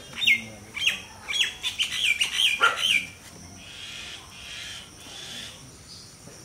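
A bird calling over and over: short notes that fall quickly in pitch, about two a second, stopping about three seconds in, after which only faint background remains.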